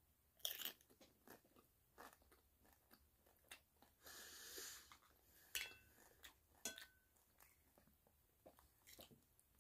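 Quiet, close crunching and chewing of a crisp tostada shell, starting with a sharp crunch of a bite. A few clicks of a fork against a ceramic plate ring briefly partway through.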